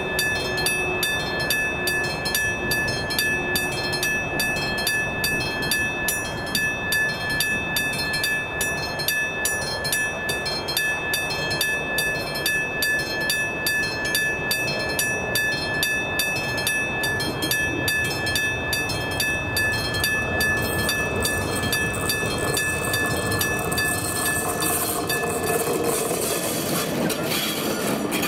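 Level crossing warning bell ringing in a fast, even rhythm over the rumble of a passing train, a ČD Cargo class 123 electric locomotive. The bell stops about two-thirds of the way through while the train noise carries on.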